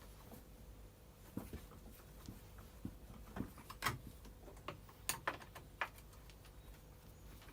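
Scattered light clicks and taps of plastic housing parts and hand tools being handled during reassembly of a Stihl FS240 brush cutter. The sharpest taps come about four and five seconds in.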